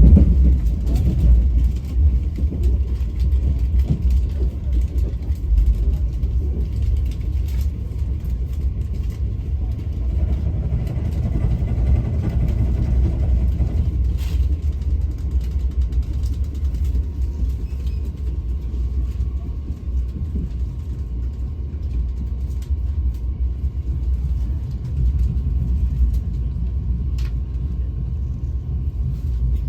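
Steady low rumble of a passenger train running on the rails, heard from inside the carriage, with a few faint ticks.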